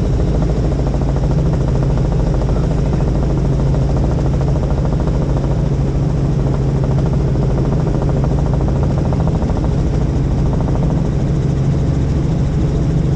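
Helicopter in flight: the steady, loud drone of its engine and rotor, with a low hum that holds even throughout.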